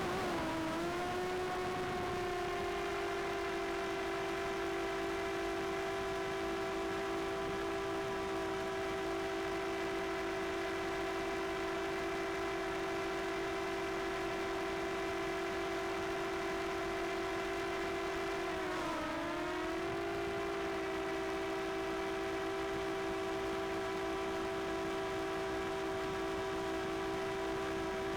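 A DJI Air 2S quadcopter's propellers whine steadily at one pitch. The whine sags and recovers briefly right at the start and again about two-thirds of the way through, as the motors change speed.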